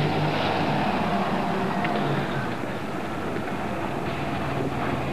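A car engine running steadily amid constant outdoor noise, picked up through a camcorder microphone.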